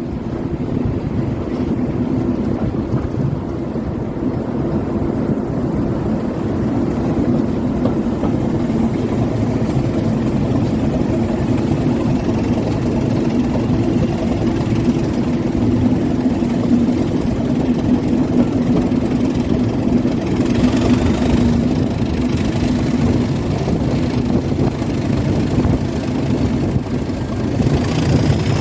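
Diesel locomotive engine running steadily with a deep, even hum.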